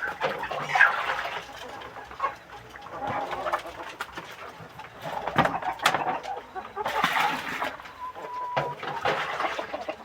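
Village chickens clucking and calling in irregular, overlapping bursts, with a couple of sharp knocks and one short steady note about eight seconds in.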